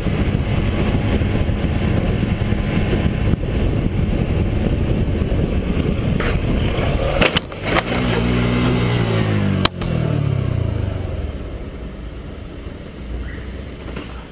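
Motor vehicle engine running under loud road and wind noise; about halfway through the engine note falls steadily for a couple of seconds, with a few sharp knocks around it, and then the noise dies down.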